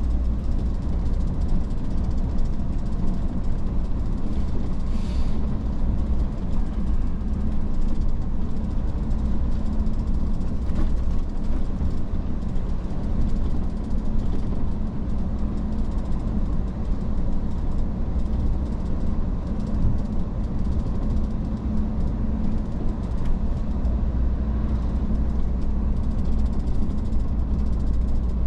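Iveco S-Way truck driving at a steady pace: an even engine drone with a low hum, plus road noise, with no change in speed or gear.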